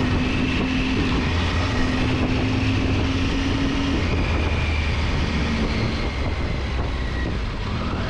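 Triumph Tiger 800 XRx's three-cylinder engine running at a steady pace under way, with wind and road noise over the microphone.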